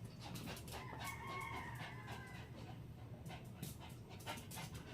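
A rooster crowing faintly in the distance: one drawn-out call starting about a second in and lasting about a second and a half.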